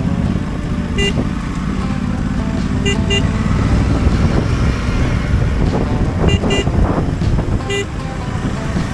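Single-cylinder engine of a Husqvarna Svartpilen 401 running on the road under wind rumble, with short horn toots: one, then a quick double, another double, and a last single.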